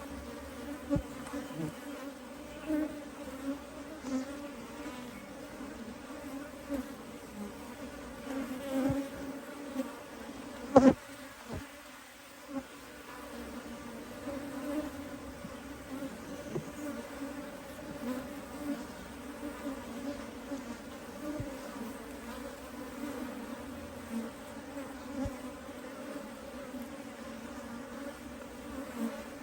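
Steady hum of a honey bee colony from an open hive, with one sharp click about eleven seconds in.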